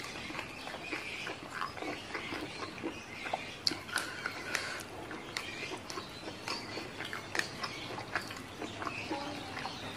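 Close-miked eating sounds: chewing and wet mouth smacks, with many short crisp crackles, of a mouthful of raw leafy greens and rice eaten by hand.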